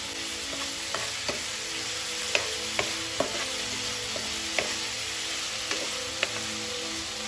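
Diced tomatoes and green onions frying in oil in a nonstick pan, with a steady sizzle, while a metal spatula stirs and scrapes them, knocking against the pan every second or so.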